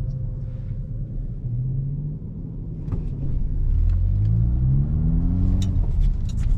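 Car engine and road rumble heard from inside a moving car, the engine note rising steadily as the car accelerates about four seconds in.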